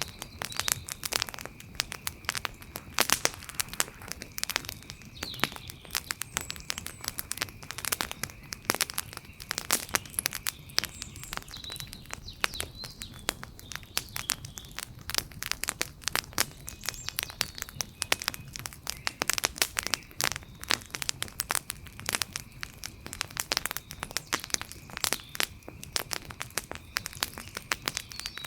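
Wood fire crackling: a dense, irregular run of sharp pops and snaps.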